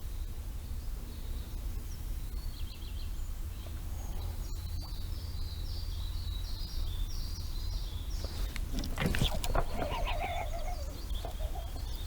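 A small songbird singing a run of high chirping notes over a steady low outdoor rumble, with a few knocks and rustles near the end.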